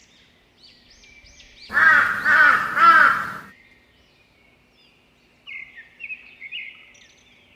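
Three loud, harsh, arched calls like a crow's caw, about two seconds in, with high chirping before and after.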